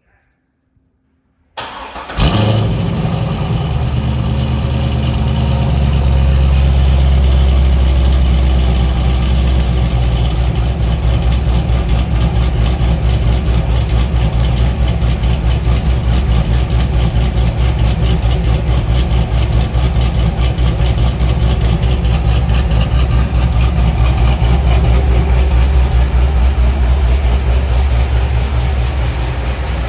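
2004 Corvette Z06's LS6 V8 cold-starting: a short crank on the starter, catching about two seconds in with a brief flare, then settling into a steady cold idle.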